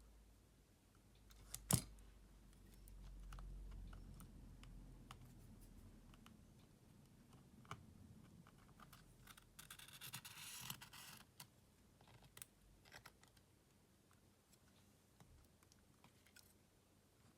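Small tools working on a Xiaomi Redmi Note 11 smartphone during disassembly: scattered light clicks and scraping, with one sharp click a couple of seconds in and a longer scratching stretch about ten seconds in.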